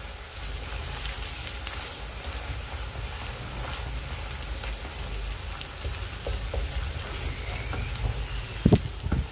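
Green paste sizzling as it fries in oil in an aluminium kadai, with many small crackles, while a wooden spatula stirs it. Two sharp knocks near the end.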